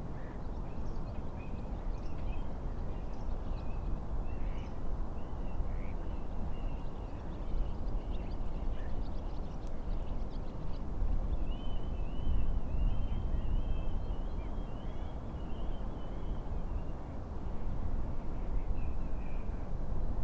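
Small birds singing and calling over a steady low rush of wind and lake waves, with a longer warbling trill from about twelve to fifteen seconds in.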